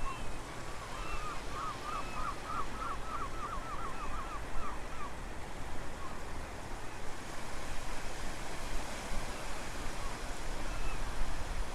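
Strong wind on the microphone, with a low, uneven rumble, over a steady wash of sea surf. A bird gives a rapid trill of chirps in the first few seconds, and a few single calls come later.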